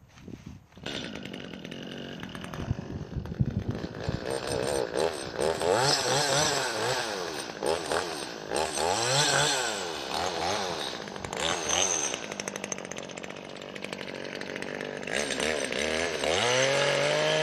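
Chainsaw coming in about a second in and running, its pitch rising and falling again and again as it cuts the ends off a log, then held high near the end. Its chain is dull enough that the owner says it needs replacing.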